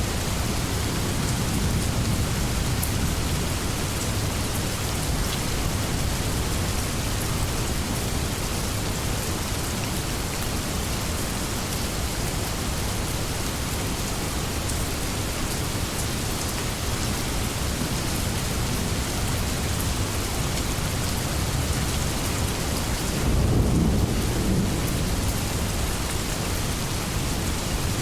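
Steady rainstorm: an even hiss of rain falling, with a low rumble of thunder swelling briefly near the end.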